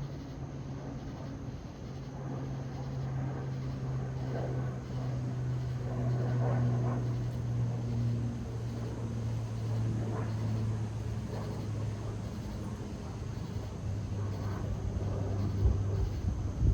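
Pilatus PC-12/45 single-engine turboprop flying by: a steady low propeller drone whose pitch sinks slowly as it passes, loudest about six seconds in and then easing off. Wind buffets the microphone near the end.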